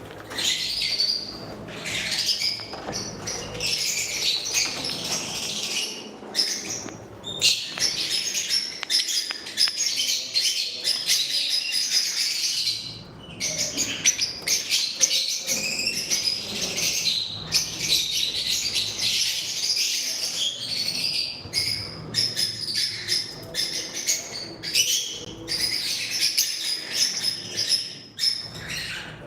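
A group of small pet parrots, love birds, chattering and chirping almost without pause, with many high calls overlapping.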